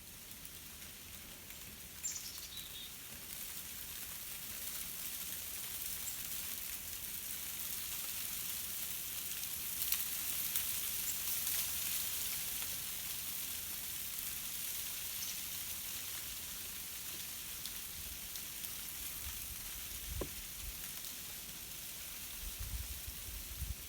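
Ice-glazed tree branches swaying in a breeze, the ice coating cracking and crackling in a dense, fine, sizzling patter that swells toward the middle. A few low bumps come near the end.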